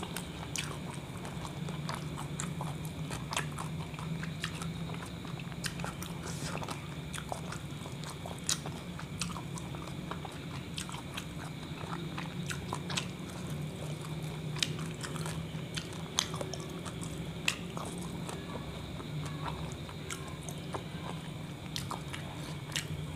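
Close-up chewing and biting of a kebab wrap, with wet mouth clicks and smacks at irregular intervals. A steady low hum runs underneath.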